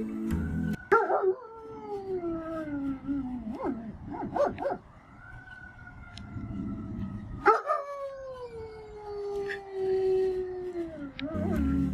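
A dog howling: two long howls, each sliding slowly down in pitch.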